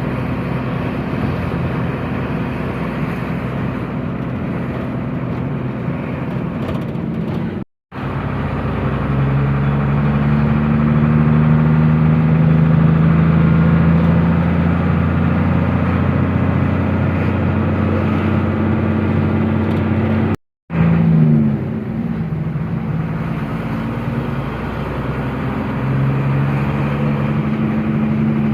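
Truck engine running while driving, a steady drone whose pitch shifts between stretches. The sound cuts out completely for a moment twice, about 8 and 20 seconds in.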